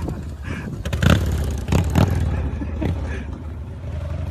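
Motorcycle engine running steadily, with several sharp knocks or clatters about one, two and three seconds in.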